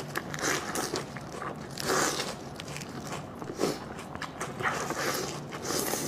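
Close-miked chewing and biting of food, in irregular wet bursts.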